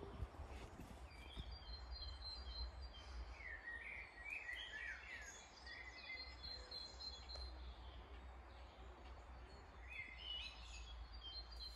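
Faint birdsong: several short chirping phrases, in two spells, over a steady low rumble.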